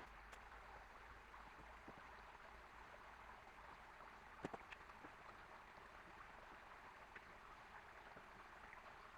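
Near silence: a faint steady background hiss, with a few light clicks and a sharper double knock about four and a half seconds in.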